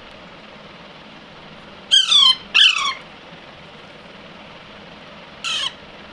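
Young Alexandrine parakeet giving three short, harsh squawks, each falling in pitch: two in quick succession about two seconds in, and one more near the end.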